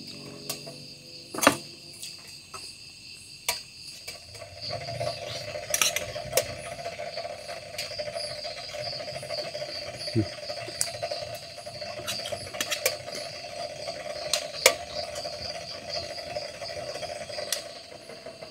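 Insects chirping steadily in a high, pulsing drone, with a lower steady buzz joining about four seconds in. A few sharp clinks of utensils against dishes or cookware sound over it.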